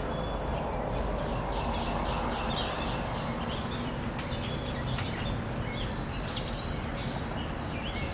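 Outdoor summer ambience: a steady high insect drone with faint bird calls in the background and a few sharp clicks midway.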